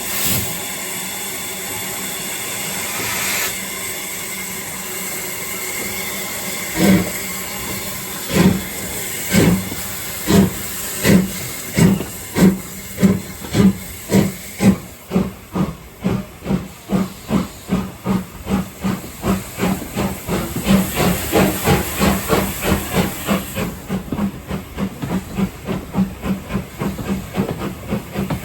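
Steam locomotive 45596 Bahamas, a three-cylinder LMS Jubilee 4-6-0, starting away: steam hisses steadily at first, then about seven seconds in the exhaust begins to bark. The beats come slow and sharp, then quicken steadily into a rapid, even beat as it gathers speed.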